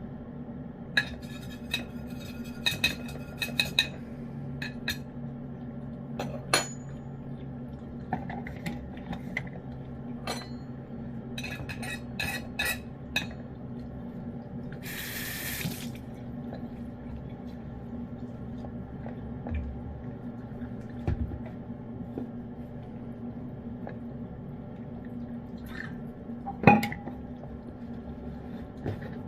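Cats eating wet cat food: scattered wet licking and chewing clicks with taps against the dish, the sharpest one near the end, over a steady electrical hum.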